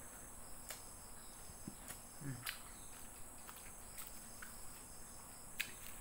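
Quiet eating by hand and chewing: scattered soft mouth clicks and smacks, with a short low hum a couple of seconds in, over a faint steady high-pitched whine in the background.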